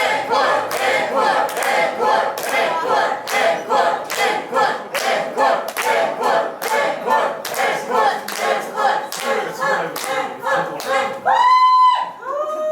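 Club audience chanting in unison to steady rhythmic clapping, about two claps a second, calling for an encore. Near the end two loud, high, drawn-out shouts ring out over it, one after the other.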